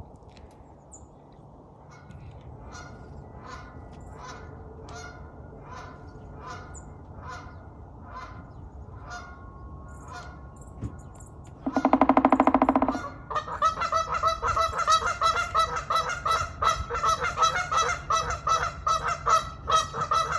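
A flock of Canada geese honking: fainter, evenly spaced honks at first, one loud, drawn-out honk about twelve seconds in, then many geese honking together, loud and overlapping, to the end.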